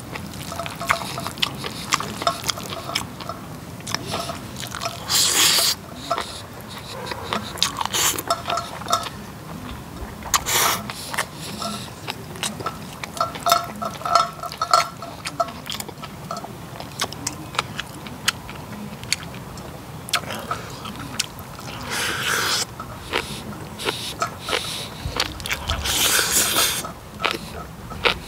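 Close-miked chewing and wet mouth smacking on a big mouthful of bibimbap with fried egg and seasoned vegetables. A spoon scoops rice off a cast-iron cauldron lid in a few short scraping bursts.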